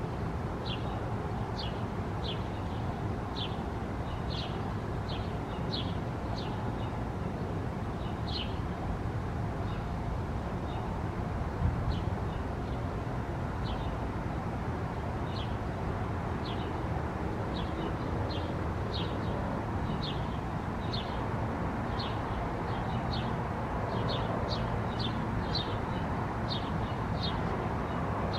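Short, high bird chirps repeated about one to two a second in loose runs, with a lull near the middle, over a steady low background rumble. There is one brief bump about twelve seconds in.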